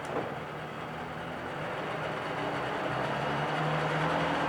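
1997 Mercury 40 hp two-stroke outboard running in reverse gear, a steady engine hum that grows gradually louder, with a small click just after the shift.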